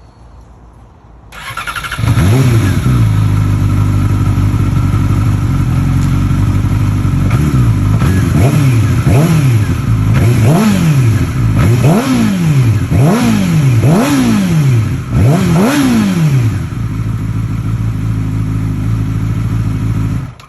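2009 Yamaha R6's inline-four engine through an M4 slip-on exhaust, catching about two seconds in and idling, then revved in a run of about eight quick throttle blips, each rising and falling, before settling back to idle. The sound cuts off suddenly near the end.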